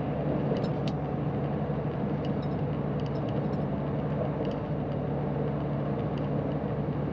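Semi truck's diesel engine running steadily while driving, heard from inside the cab as an even low drone with road noise, with a few faint irregular ticks and rattles over it.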